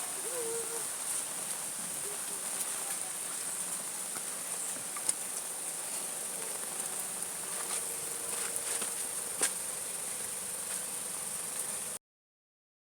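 Insects calling in a steady, high-pitched drone, with a couple of sharp clicks partway through; the sound cuts off abruptly near the end.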